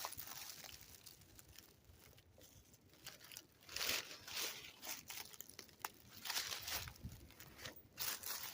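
Footsteps crunching and rustling through dry leaf litter, in a few uneven bursts.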